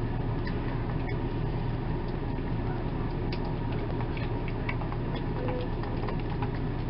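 A steady low hum, with scattered light clicks and taps over it.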